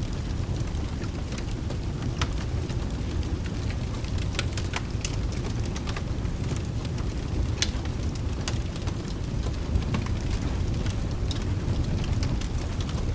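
Wood fire crackling, with irregular sharp pops scattered throughout, over a steady low rumble and the hiss of rain.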